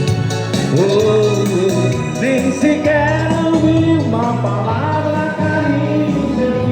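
Forró dance band playing, with a melody line that sounds like singing over a steady beat.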